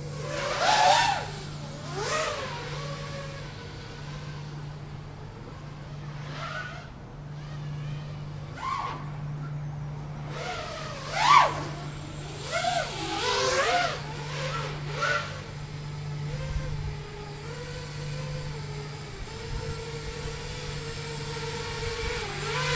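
FPV quadcopter motors whining, the pitch rising and falling with throttle changes, over a steady low hum. The loudest surges come about a second in and again around the middle.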